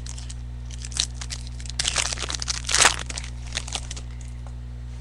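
Crinkling and tearing of a trading-card pack wrapper being handled, in a run of short crackly bursts starting about a second in, loudest near the middle.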